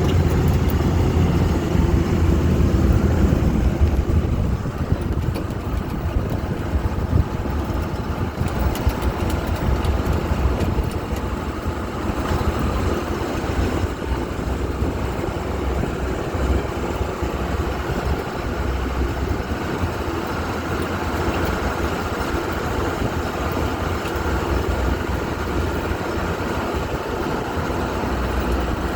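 Amphibious duck boat's engine running as the vehicle drives along on land, a steady low rumble that eases about four seconds in.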